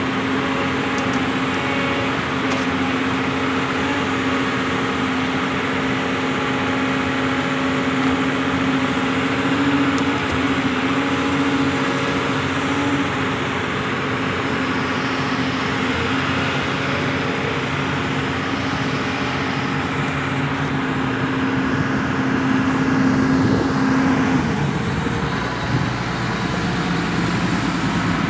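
Diesel engine of heavy earthmoving machinery running steadily, with a steady hum that drops away about 24 seconds in as the engine note changes.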